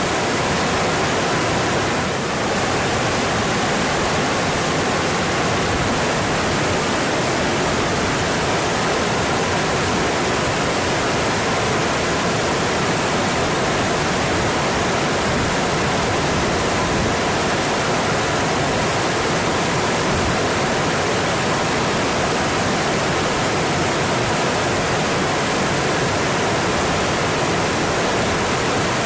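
Mountain stream rushing over its bed, a steady, even roar of water.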